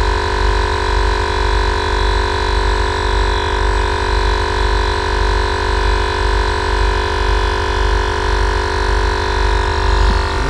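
A single Air Lift Performance air-suspension compressor running on its own, filling the air tank: a steady drone with a fast low pulsing underneath.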